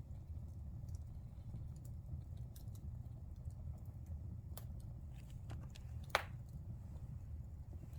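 Wood fire burning in a fireplace: a steady low rumble of flames with scattered small crackles, and one loud pop about six seconds in.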